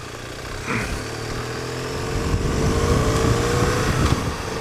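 BMW R1200GS's 1170 cc flat-twin engine pulling under acceleration, its note rising steadily and getting louder for about three seconds, then falling away suddenly near the end as the throttle is eased or a gear is changed.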